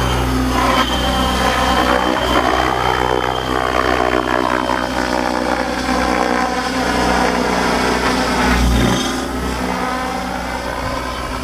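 Hobby King Assault 700 electric RC helicopter with 750 mm main blades in flight: a steady rotor beat with the whine of the electric motor and drivetrain, rising and falling in pitch as it moves around.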